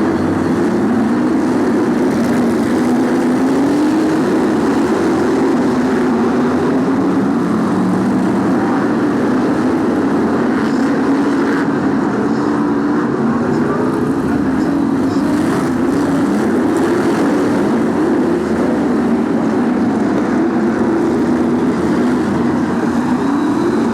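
A pack of BriSCA F1 stock cars racing on an oval, their V8 engines running loud and continuously, the pitch rising and falling as the cars go around the track.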